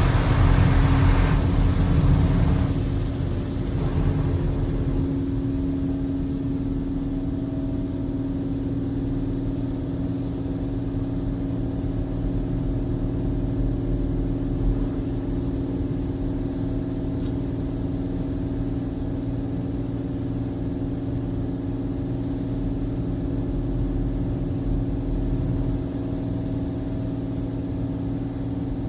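Touchless car wash heard from inside the car: high-pressure water spray hits the car for the first couple of seconds and dies away, leaving a steady low mechanical hum.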